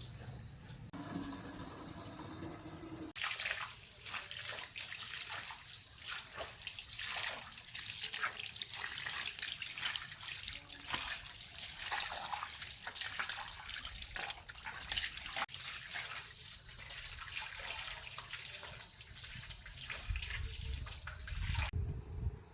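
Water running and splashing in a steady, irregular rush, with a couple of abrupt changes in sound near the start and again near the end.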